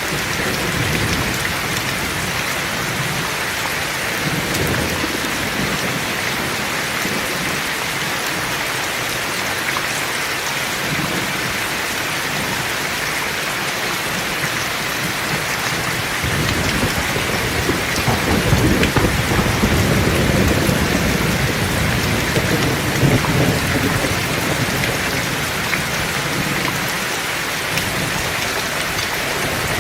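Heavy rain falling steadily, with a long roll of thunder that swells in about halfway through and rumbles for several seconds before easing.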